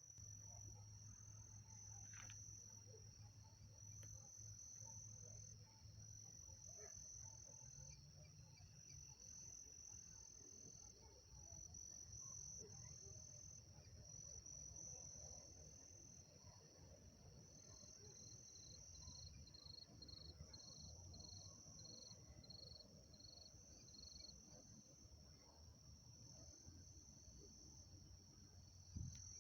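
Faint, continuous chirping of crickets in a high, pulsing trill, with a second insect giving regular short chirps, about two a second, for several seconds in the latter half. A low steady hum lies underneath.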